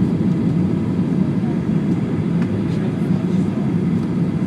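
Steady low rush of Boeing 737-800 cabin noise, engine and airflow heard from inside the passenger cabin in flight, with a faint tick about halfway through.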